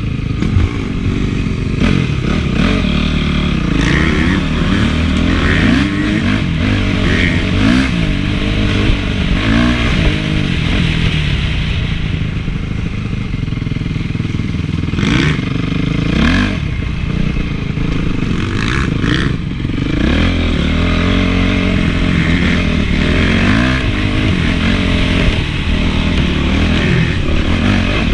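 Honda CRF450 four-stroke single-cylinder motocross engine revving up and down over and over while being ridden. A few sharp knocks come about halfway through.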